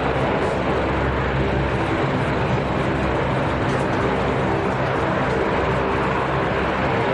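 Military aircraft engines running steadily: a loud, even rush of noise over a low droning hum.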